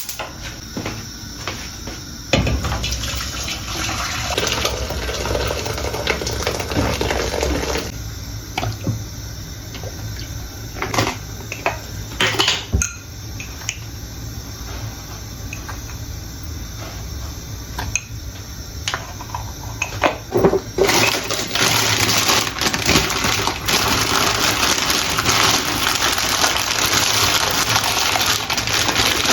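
Kitchen work at a sink: dishes and utensils knocking now and then, then a water tap running steadily for the last several seconds.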